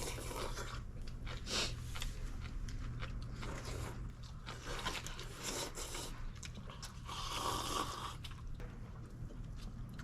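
Close-up crunching and chewing of green onion kimchi (pa-kimchi) with noodles: irregular crisp bites and wet mouth sounds.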